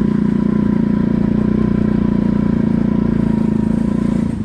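Pit bike engine running at a steady, held speed under riding. Near the end the note drops off as the throttle eases.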